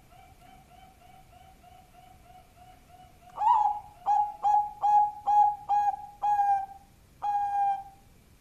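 Bangkok-type zebra dove (perkutut) cooing: a soft, quick string of low notes, about four a second, then about three seconds in a loud run of short coos at the same pitch, ending in a longer drawn-out note.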